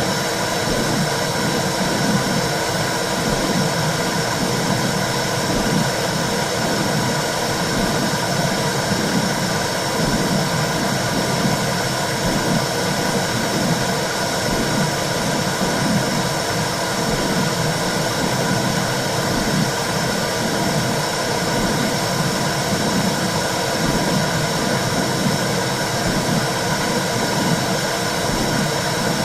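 Womb sound for soothing a baby: a steady, loud whooshing noise with a low pulsing that keeps repeating, without a break.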